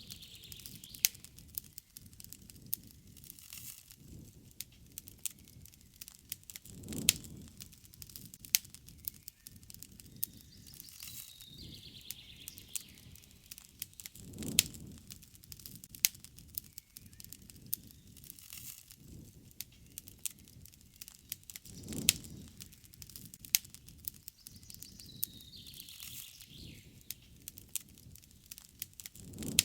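Wood campfire crackling and popping steadily, with many small snaps and now and then a sharp, louder pop, and a low swell about every seven seconds. Birds call faintly in the background twice, about twelve seconds in and again near the end.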